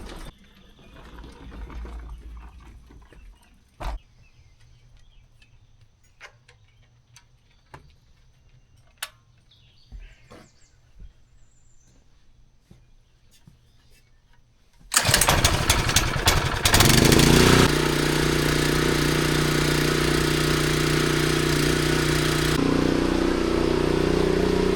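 Small gas engine of a Craftsman pressure washer starting, after some faint clicks and handling taps. About fifteen seconds in it turns over with a fast rattle, catches, and settles into a loud, steady run, which shifts slightly near the end.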